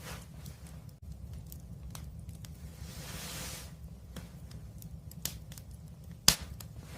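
Wood fire crackling, with scattered small pops over a low steady rumble of the flames, a brief soft hiss swelling about halfway through, and one sharp loud pop near the end.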